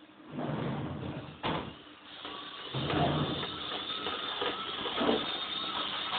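Remote-controlled toy semi-truck's small electric motor and gears whirring as it drives, in two spells with a sharp click between them; the second spell is louder, with a steady whine.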